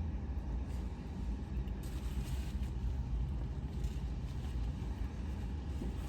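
Steady low rumble of a car's running engine, heard from inside the cabin.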